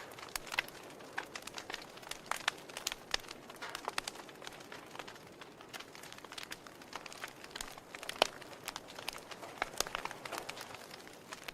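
Wood fire in a fireplace crackling, with irregular sharp pops and snaps from the burning logs over a soft steady hiss; one pop about eight seconds in is the loudest.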